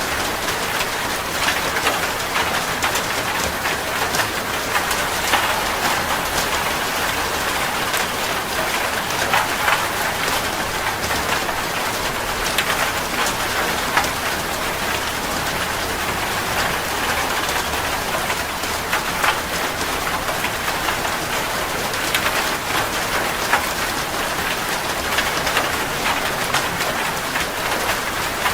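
Heavy rain falling on a metal roof: a steady, even hiss dotted with many sharp ticks of single drops striking the sheet metal.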